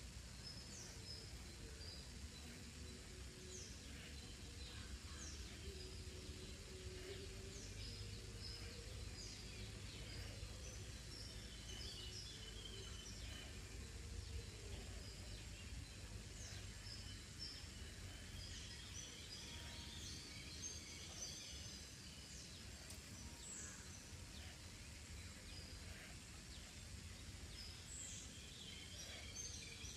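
Faint birdsong: many short, high chirps and whistles from several birds, scattered throughout over a low steady rumble of background noise.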